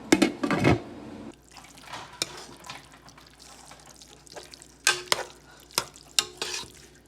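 Kitchen sounds of utensils and cookware: a quick cluster of knocks and scraping in the first second, then a few sharp clinks, some of them ringing briefly, around five to six and a half seconds in.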